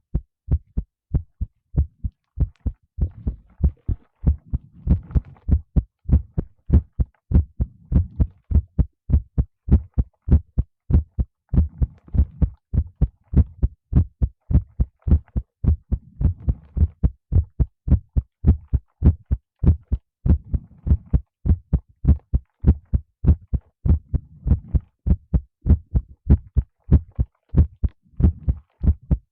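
Human heartbeat heard close up: an even, unbroken run of short low thumps, with a faint low rustle now and then between them.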